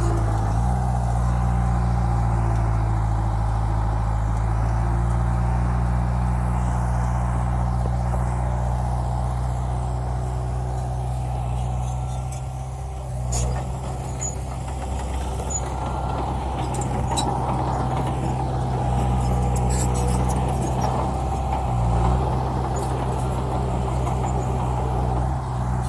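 Heavy diesel dump truck engine running steadily, its note shifting briefly about halfway through and again later.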